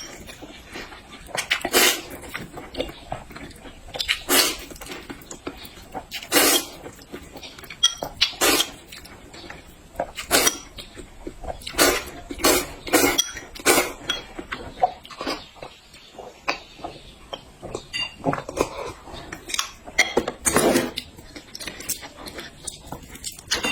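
A person eating close to the microphone: short, wet chewing and mouth sounds at irregular intervals, roughly one every second or two.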